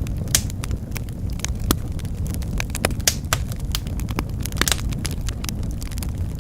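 Wood fire in a fireplace crackling: frequent sharp pops and snaps, irregular in timing, over a steady low rumble of the flames.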